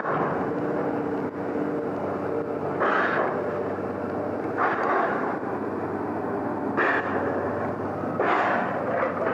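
A heavy machine's engine running steadily, with about five short, noisy surges a couple of seconds apart.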